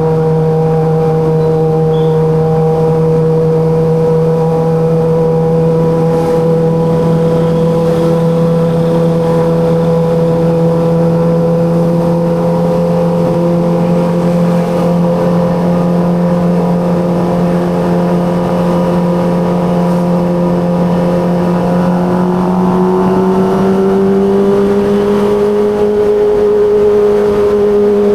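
Kawasaki ZX25RR's inline-four engine running at steady revs, its pitch climbing slowly near the end as the revs rise.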